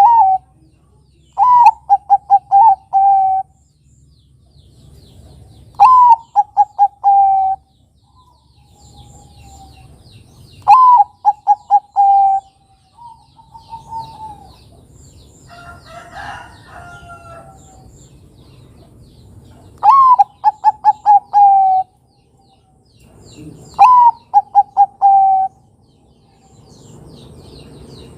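Zebra dove (Bangkok-type perkutut) singing its rolling cooing song, five times. Each phrase is a sharp opening note followed by a quick run of about five short coos, with a few seconds between phrases and one longer gap in the middle. Other birds chirp faintly in the pauses.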